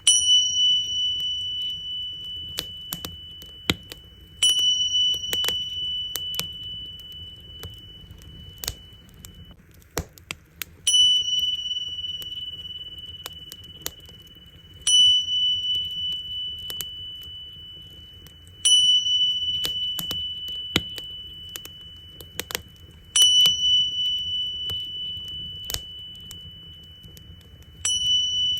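Tingsha cymbals struck seven times, about every four seconds, each strike a high ringing tone that slowly fades, over a crackling wood fire with sharp pops.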